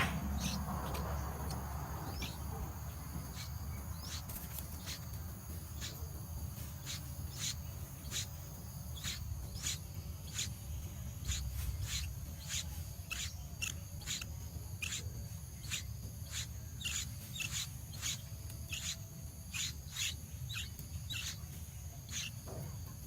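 A small bird giving many short, sharp, high chirps, one or two a second and irregularly spaced, over a steady high insect drone and a low rumble.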